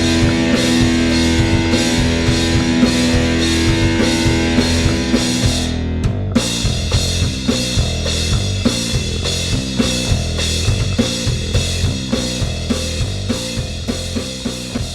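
Heavy/doom metal band recording playing: distorted guitars, bass and a drum kit keeping a steady beat. About six seconds in, the held chords break off and the band goes on with a choppier riff, getting gradually quieter toward the end.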